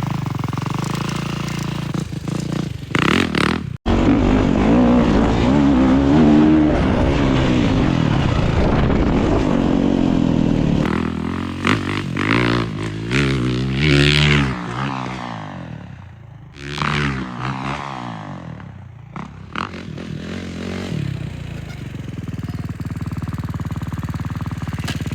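Dirt bike engines revving, the pitch repeatedly climbing and falling as the throttle is opened and closed, with a brief drop-out about four seconds in.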